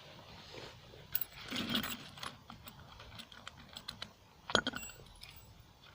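Scattered light clicks and clatter of small metal objects being handled, with one louder clack about four and a half seconds in.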